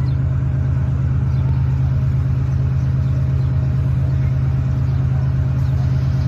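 Moving diesel passenger train heard from a coach window: a loud, steady low drone with a rushing noise over it, unchanging throughout.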